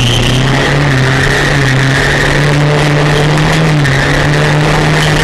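A car engine running steadily while driving, its pitch stepping slightly up and down a few times.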